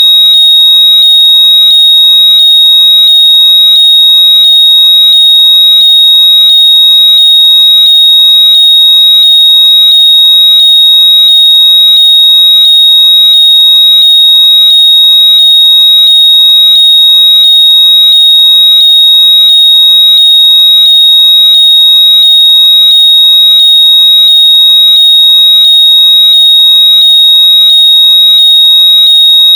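Very loud, steady high-pitched electronic tone near 4 kHz, unbroken throughout, with a faint pulse about twice a second. It is played through lost earbuds or AirPods so they can be found by ear.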